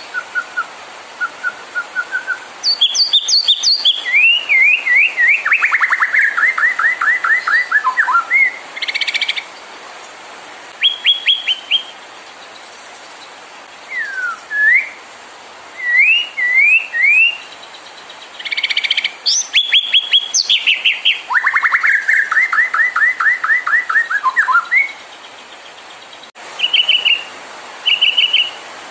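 White-rumped shama singing a varied song of clear whistled notes, upswept phrases and rapid trills, in bursts with short pauses. A long phrase of fast repeated trill notes comes twice, about three seconds in and again near twenty seconds.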